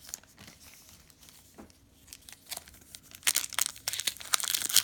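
Crinkling of a trading-card pack's foil wrapper and cards handled in the hands, sparse for the first couple of seconds, then a dense run of crinkling from about three seconds in.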